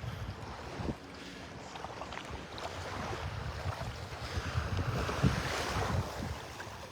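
Small waves washing at the water's edge, with wind buffeting the microphone in uneven low rumbles.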